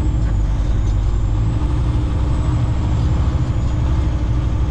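Heavy diesel truck engine running steadily with a constant low drone.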